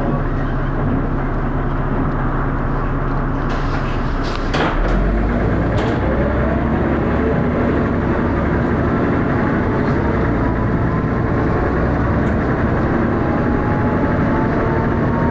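Dennis Arrow double-decker bus's diesel engine, heard from on board. It ticks over steadily at first, then after a sharp clunk about four and a half seconds in it runs up under load as the bus pulls away, its pitch rising.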